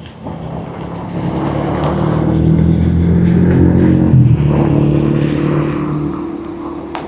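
A passing vehicle's engine: its hum builds for about three seconds, peaks around four seconds in with a slight drop in pitch, then fades away, over a steady hiss of storm wind and rain.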